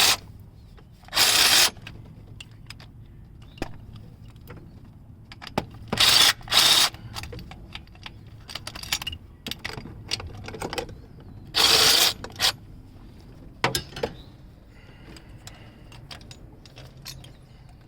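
Impact wrench run in five short bursts, spinning out the 12 mm bolts of the transmission's clutch cable bracket, with small metallic clicks and clinks of bolts and tools being handled between the bursts.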